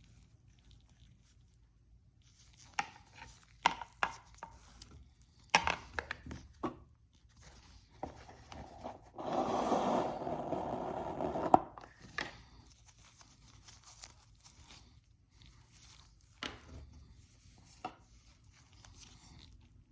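Unboxing handling noises: scattered clicks and knocks of packaging being handled, and a longer scraping, tearing stretch of about two seconds halfway through that ends in a sharp click.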